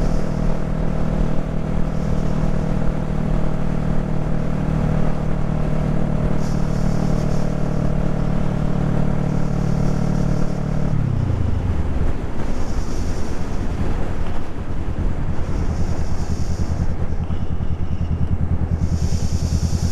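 Honda Rebel 500 parallel-twin engine with an aftermarket exhaust running steadily while riding, its engine speed dropping smoothly about halfway through and settling to a lower steady note, with wind rushing over the helmet microphone.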